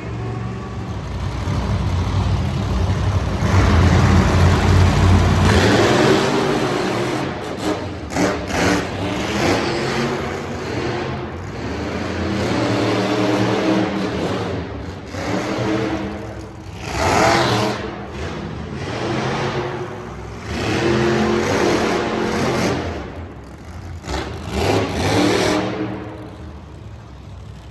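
Monster truck engine revving hard over and over, its pitch climbing and dropping every few seconds.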